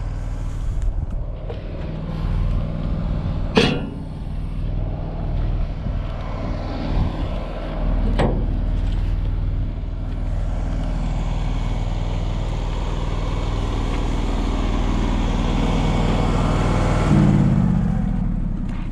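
Engine-driven welding machine running steadily, with two sharp metallic knocks in the first half. About halfway through comes a steady crackling hiss of a stick-welding arc, which stops shortly before the end.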